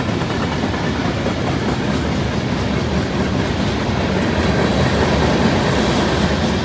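Railroad cars of a passing train rolling by, wheels clattering over the rails in a steady, dense din that grows a little louder in the second half.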